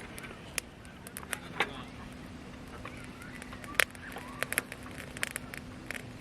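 Wood campfire crackling, with sharp irregular pops from the burning wood, one louder snap near the middle.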